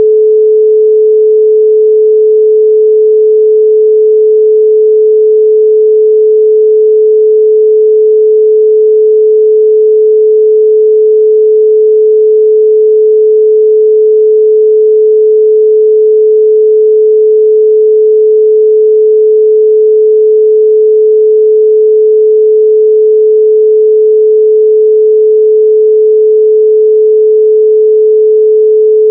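A 432 Hz pure sine tone, electronically generated, holding one steady pitch at a constant loud level.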